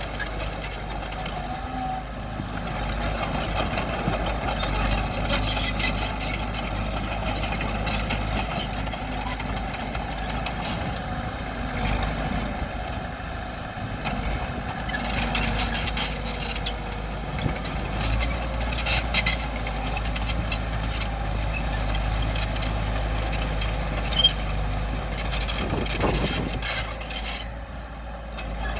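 Bulldozer's diesel engine running under load, with frequent clanks and knocks of tracks and rock throughout, and a brief lull near the end.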